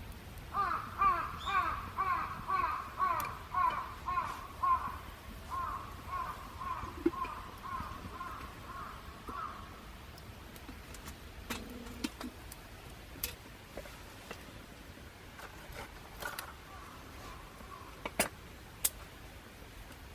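A bird calling in a long run of repeated calls, about two a second, that thin out and stop about ten seconds in. A few sharp clicks follow in the second half.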